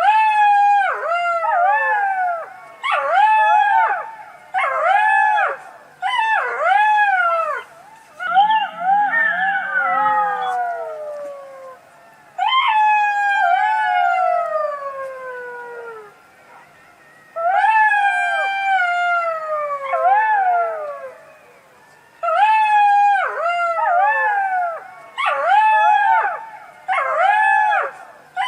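A fox calling: bouts of short, high-pitched arching yelps, three or four in quick succession, with a raspier call about a third of the way in and two long, falling wails in the middle.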